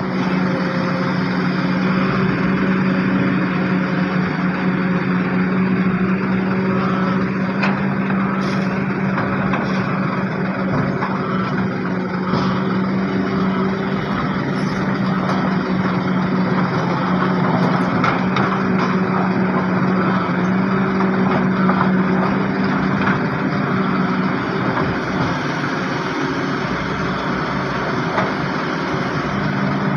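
Heavy diesel machinery running steadily, with a constant low hum and a few light knocks.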